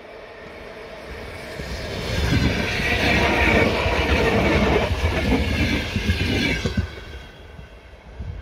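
Electric multiple-unit commuter train passing close on snow-covered track: a rumble and clatter of wheels that builds up about two seconds in, stays loud for several seconds, then fades near the end as the train moves away.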